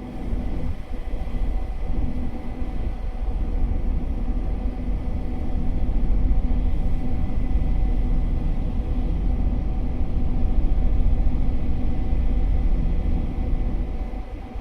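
Steady low engine rumble with a constant hum, mixed with wind buffeting the microphone.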